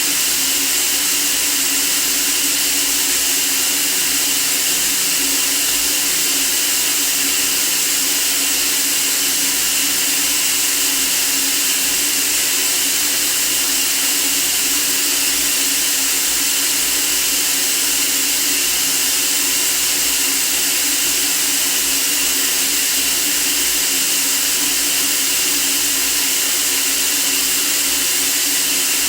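Steady, unchanging white-noise hiss, strongest in the high treble, with a faint low hum beneath it.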